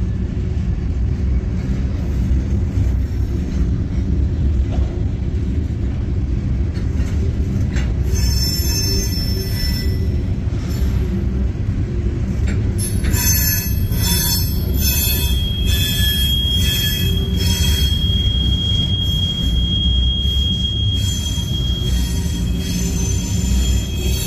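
Freight train hopper cars rolling past with a steady low rumble of steel wheels on rail. High-pitched wheel squeal comes in about a third of the way through, with one steady squealing tone held for several seconds in the second half.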